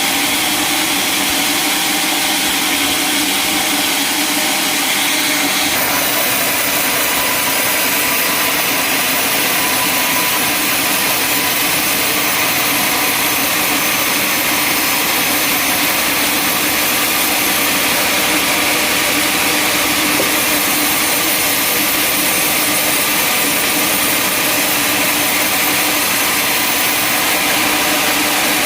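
Sawmill machinery running steadily, with a change in tone about six seconds in.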